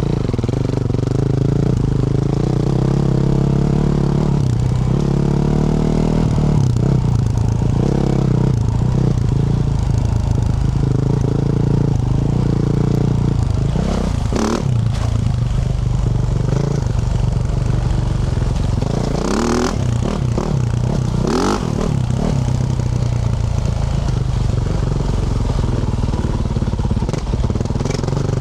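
2024 Yamaha YZ450F's 450 cc single-cylinder four-stroke engine, with a Yoshimura RS-12 exhaust, running hard under way. Its revs rise and fall repeatedly as the rider works the throttle and gears. A few short rushes of noise come through past the middle.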